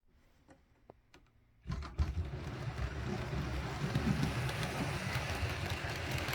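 Model Jinty tank locomotive running on the layout track: a few faint clicks, then about a second and a half in a steady running noise of motor and wheels on rail starts and carries on.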